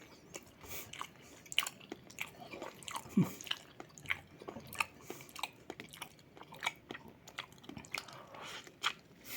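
Close-miked chewing and biting of food, with irregular crisp crunches and wet mouth clicks. There is a short low hum about three seconds in.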